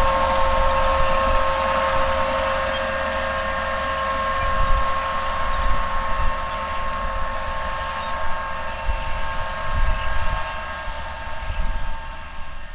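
Case IH Magnum 305 tractor running steadily with a constant whine over a low rumble, pulling a planter through the field; the sound fades down near the end.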